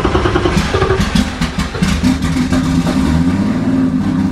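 Turbo BMW E46 M3 drift car's engine running loud just after start-up, heard from inside the cabin. It is ragged and uneven for the first couple of seconds, then settles into a steadier idle.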